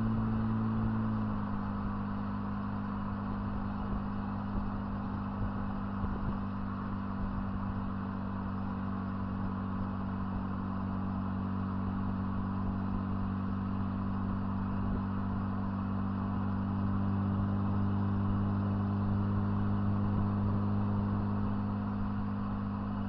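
Lexus IS200's 1G-FE straight-six running through a decatted exhaust with a stainless muffler, heard from inside the car. The engine note drops in pitch about a second in as the revs fall, then settles into a steady low drone while cruising, getting a little louder towards the end.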